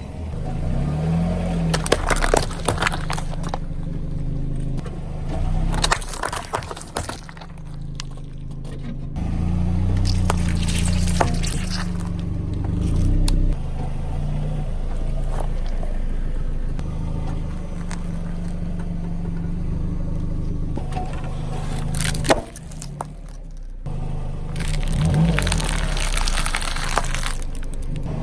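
Car engine running low while its tyres roll over snack packets, with scattered crunches and crackles as the crisps and biscuits are crushed.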